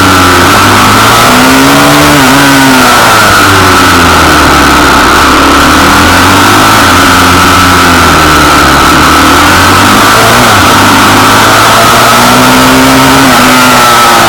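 Pit bike engine running loud, its pitch rising and falling as the throttle is opened and eased off.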